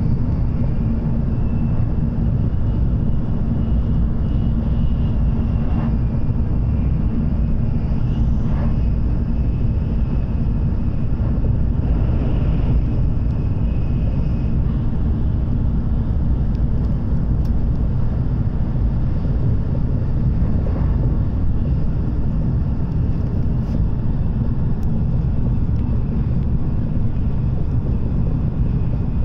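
Running noise inside the cabin of an N700S Shinkansen at speed: a steady low rumble from the wheels and running gear, with a faint higher whine over it.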